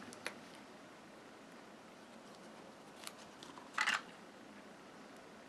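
Small handling noises of paper crafting at a table: a few light clicks, then a short, louder scrape about four seconds in as small paper pieces are moved and pressed into place.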